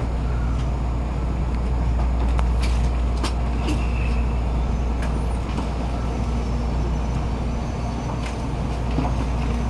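Steady low rumble of an N700-series Shinkansen heard from inside the passenger cabin, with a few faint clicks and ticks over it.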